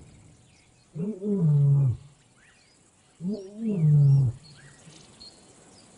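Lion roaring: two long calls about two seconds apart, each rising briefly and then dropping in pitch.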